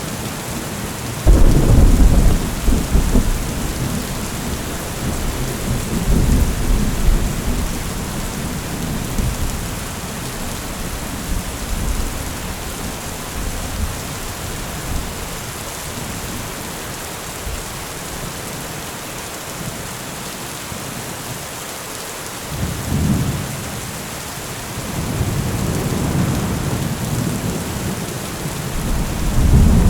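Steady rain with thunder: a sudden loud clap about a second in rolls on as a rumble for several seconds, then further low rumbles come back near the end.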